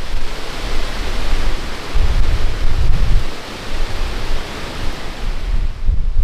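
Wind gusting against the microphone, with a steady rushing hiss and low rumbling buffets that swell about two seconds in and again near the end.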